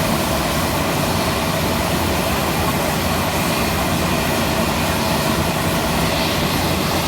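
Aircraft engines running steadily: a loud, even rush with a constant whine over it.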